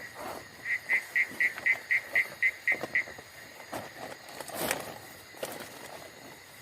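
Night forest sounds: a steady insect drone, with a loud run of about ten quick pulsed chirps, about four a second, from a calling night creature. A single sharp crack follows a little past halfway.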